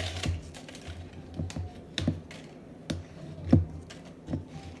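A string of irregular light taps and knocks from a plastic pre-workout tub and scoop being handled while a drink is mixed.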